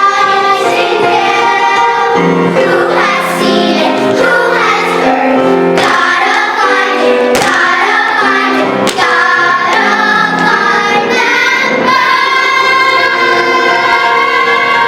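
Children's chorus singing a show tune with musical accompaniment, the phrases settling into long held notes near the end.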